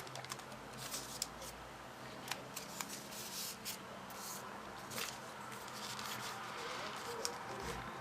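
Paper being handled: irregular crisp rustles and small crackling clicks from folded paper.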